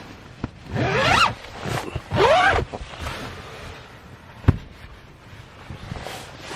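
A zipper pulled in two quick strokes, each with a sweeping whizz, followed a couple of seconds later by a single sharp knock.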